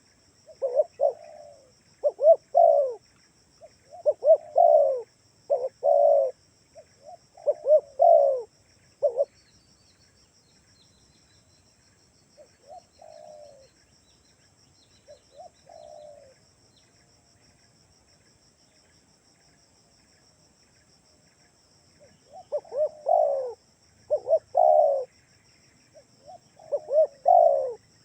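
Spotted dove cooing in repeated phrases of short, low, hollow notes. It goes quiet for several seconds in the middle, with only a couple of faint coos, then resumes loudly near the end. A faint, steady high-pitched hum runs underneath.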